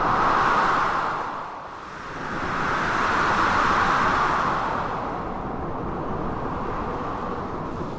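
Storm ambience of blizzard wind with sea waves crashing, a steady noise that swells twice in the first half and then settles.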